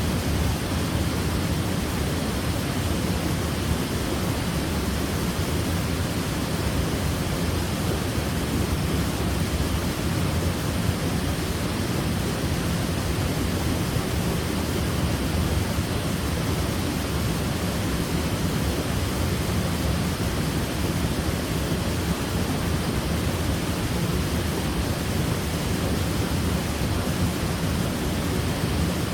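Waterfall: water falling and splashing in a steady, even rush with a deep low rumble, unchanging throughout.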